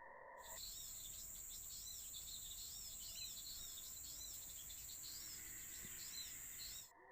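Small birds chirping over and over, short arching chirps coming every second or so, over a steady high-pitched insect drone. The field sound cuts in just after the start and cuts off abruptly near the end.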